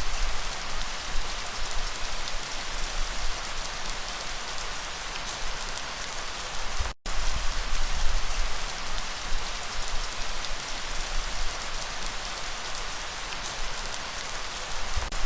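Steady rain falling, a dense even hiss with a deep rumble underneath. The sound cuts out completely for a split second about halfway through.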